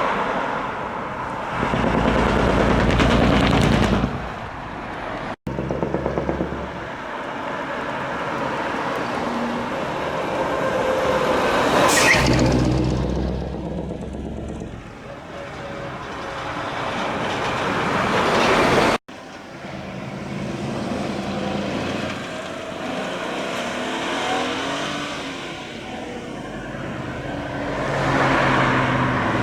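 Decorated trucks driving off one after another, their diesel engines revved through split-manifold (mani-wari) exhausts. The engine note rises and falls with the revving, and the sound cuts off abruptly twice, about five and nineteen seconds in.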